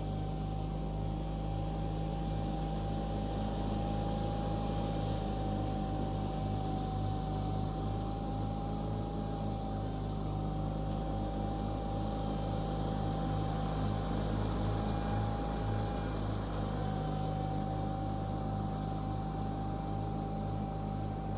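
John Deere 318 garden tractor's Onan twin-cylinder engine running steadily with the mower deck engaged to mulch leaves, a thin steady whine over the engine's hum.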